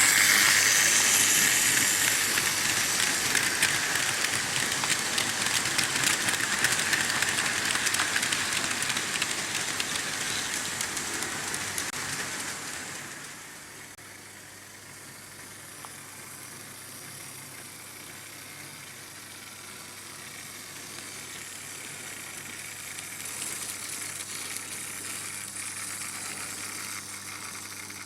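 Märklin H0 model train running on vintage stamped-metal M-track: a steady rolling clatter of wheels on the rails with motor noise. It is loud for about the first 13 seconds, then drops and runs on quieter, swelling slightly again near the end.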